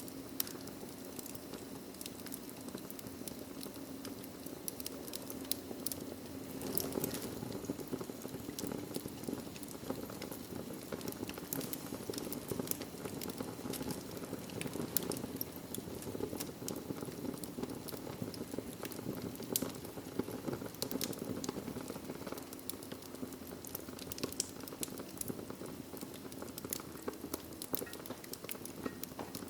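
Wood fire crackling in a fireplace: a steady low rush of burning with frequent irregular sharp pops and snaps.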